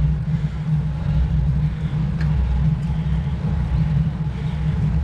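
Steady low rumble of wind buffeting the camera microphone, mixed with road noise, while riding a road bike.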